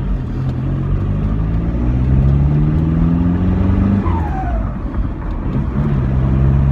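Straight-piped 1.9 TDI ALH turbodiesel in a 2001 VW Jetta, pulling hard in second gear with its note rising for about four seconds. On lift-off the engine note drops and the turbo gives a short falling whistle, which the owner calls a turbo bark and thinks is the wastegate slamming shut. The engine note climbs again near the end.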